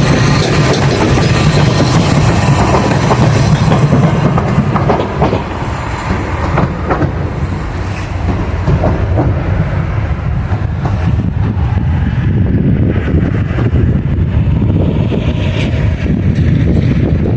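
A train running past on the rails: a steady low rumble with scattered clicks of wheels over rail joints, easing a little about five seconds in before building again.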